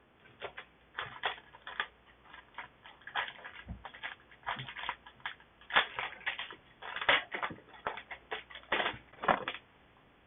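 Foil booster pack wrapper crinkling and tearing as a trading card pack is opened, a quick irregular run of crackles and snaps.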